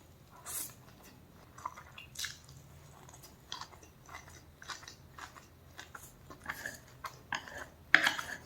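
Close-up sounds of a person biting and chewing food, with irregular crisp crunches and wet mouth clicks. The loudest crunch comes near the end.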